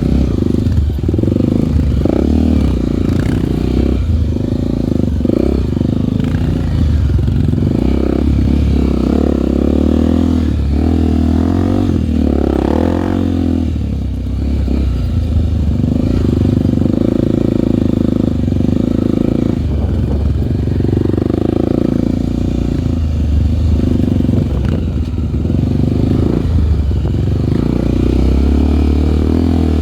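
Honda single-cylinder four-stroke trail motorcycle engine running under way off-road, its revs rising and falling as the rider works the throttle.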